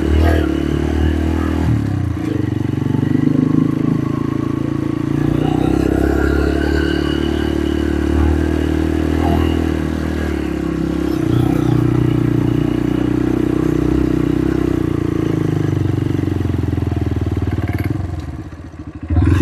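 Motorcycle engine running steadily while riding, rising and falling slightly with the throttle and dropping away briefly near the end.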